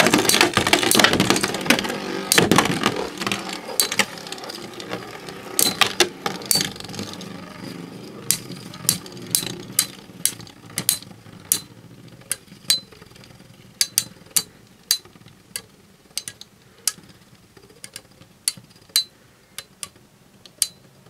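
Two Beyblade spinning tops, Omega Dragonis 105XF and Lightning L-Drago 100HF, whirring and grinding in a plastic stadium and clashing with many sharp metal clinks. The whirring fades as the tops lose spin, while the hits grow further apart toward the end.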